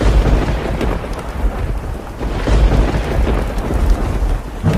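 Heavy rain with thunder rumbling. The thunder starts suddenly and swells again about halfway through.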